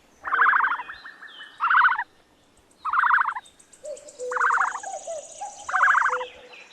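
Five short, rattling bird calls about a second and a bit apart, each a fast pulsed burst, with a faint high-pitched pulsing chirr in the background through the middle.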